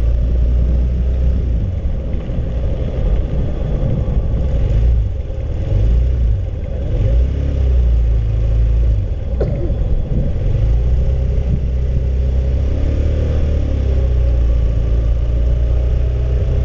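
Honda CB150R's single-cylinder engine running with a steady low rumble, its pitch rising and falling slightly with the throttle. A single short click comes about nine and a half seconds in.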